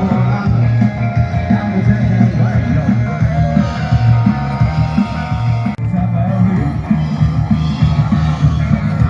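Rock music with electric guitar and singing, with a brief dip a little past halfway.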